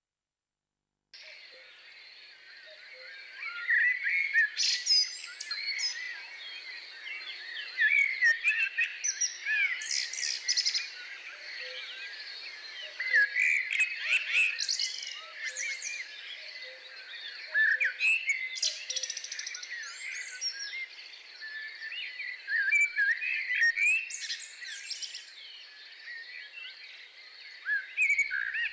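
Several songbirds singing together, a dense chorus of overlapping chirps and warbles that starts about a second in and carries on without a break.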